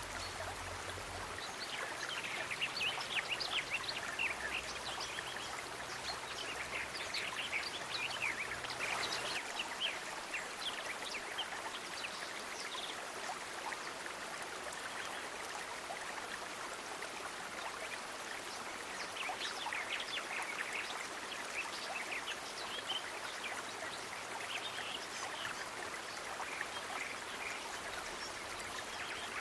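Steady rush of flowing water, like a stream, with bursts of rapid high chirping calls during the first third and again in the last third.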